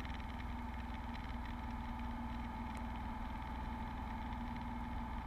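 Faint, steady cabin drone of a Beechcraft Bonanza's piston engine in flight, a low rumble with a steady hum over it.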